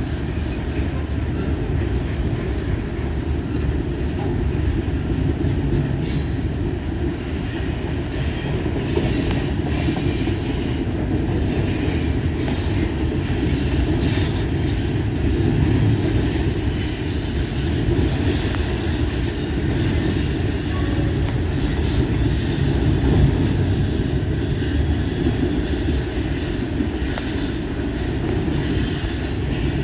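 Norfolk Southern freight train rolling past, a steady heavy rumble of wheels on rail. A faint thin squeal rises above it for a few seconds midway.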